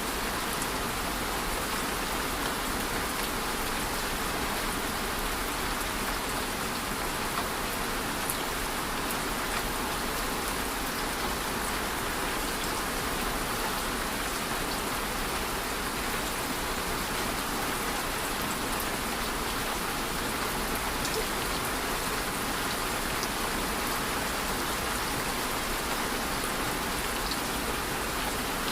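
Steady rain falling, an even hiss with a few faint individual drop taps.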